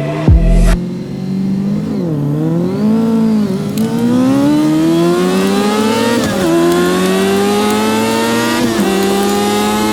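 Yamaha R6 RJ03's 600cc inline-four engine accelerating hard through the gears, its pitch climbing steadily. Three upshifts each drop the pitch suddenly, after an earlier brief roll-off and pickup.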